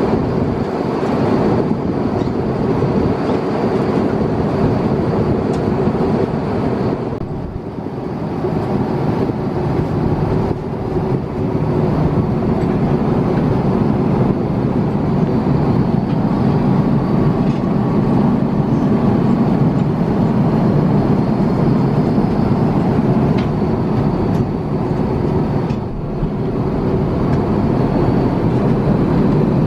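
Steady loud rumble and hiss from inside a moving vehicle, with brief dips about a third of the way in and near the end.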